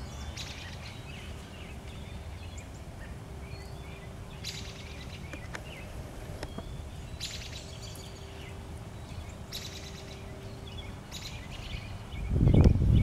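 Outdoor background noise with wild birds chirping and trilling on and off, over a faint steady hum. Near the end a loud low rumble swells up.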